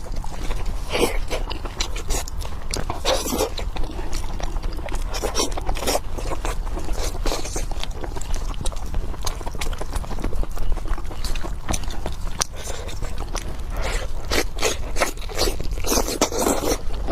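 A person chewing pork close to the microphone: a run of irregular wet clicks and smacks, over a steady low hum.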